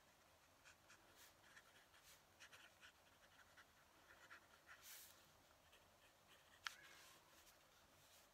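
Fountain pen nib scratching across paper in quick, short strokes, faint throughout. One sharp click stands out late on.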